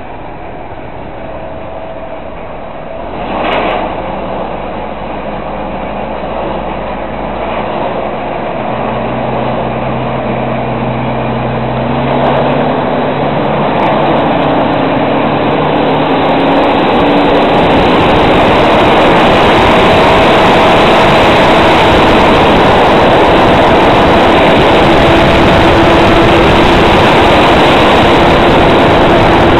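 Fendt 924 Vario tractor and Kemper Champion 3000 silage harvester running. The sound grows steadily louder over the first half, and its pitch rises as the machinery comes up to speed, then it holds at a steady high level. There is a brief louder noise about three seconds in.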